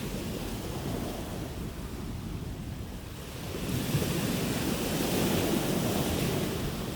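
Sea waves rushing on the shore. About halfway through a wave breaks and swells into a louder hissing wash that lasts a few seconds before easing off.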